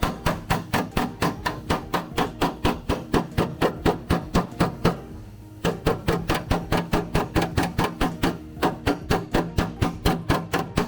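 Quick, even hammer taps on sheet-metal body panel, about four a second, with a short pause near the middle before the tapping resumes; background music plays underneath.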